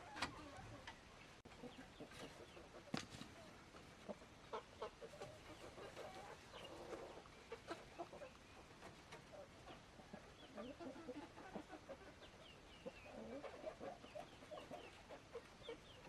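Chickens clucking softly on and off, with scattered short high chirps. A couple of sharp clicks stand out, one right at the start and one about three seconds in.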